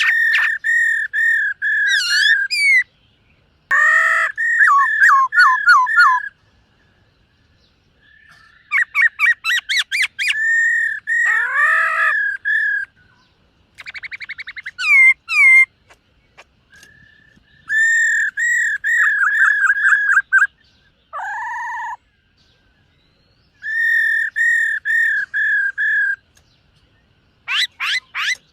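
Black-throated laughingthrush singing: loud whistled phrases, each a quick run of repeated notes, some sliding down in pitch, in about seven bouts with short pauses between them.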